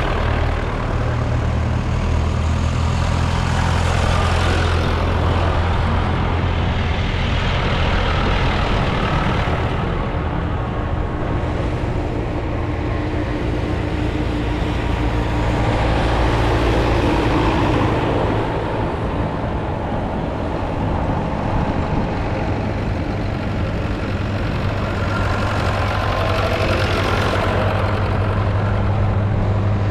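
Tractor diesel engine running with a steady low drone, while a wider rush of engine and road noise swells and fades several times as vehicles go by.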